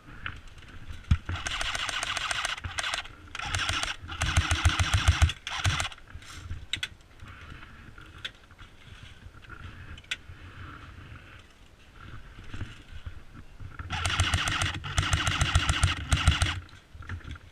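Airsoft electric guns firing full-auto, in bursts of rapid mechanical clicking: a long burst, two shorter ones close together, then after a lull two more bursts near the end.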